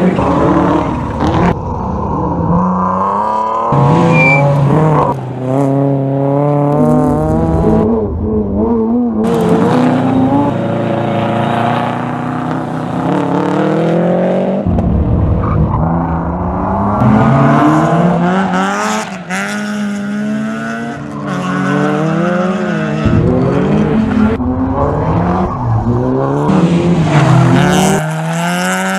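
Rally car engines at full racing effort, the revs climbing and dropping again and again through gear changes and lifts off the throttle.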